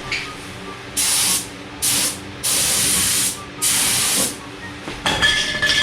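Compressed-air paint spray gun with a 1.4 mm tip at about 25 psi spraying epoxy primer in four short bursts of hiss, each trigger pull lasting about half a second to a second, with short pauses between them. Near the end there is a louder, more jumbled sound with a thin steady whistle in it.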